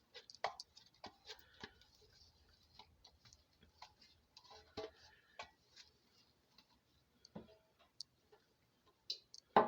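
Faint, irregular light clicks and taps of a gloved hand rubbing lard into a bread pan, spaced a second or so apart.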